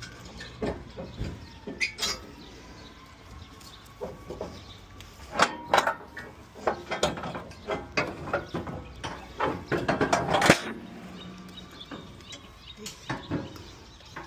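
A series of irregular knocks and clatters, busiest and loudest in the middle and second half.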